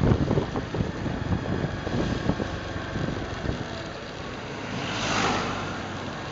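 Honda Super Cub 110's small single-cylinder engine running under heavy wind buffeting on the microphone. The buffeting eases after the first couple of seconds, and a rushing swell of noise rises and falls about five seconds in.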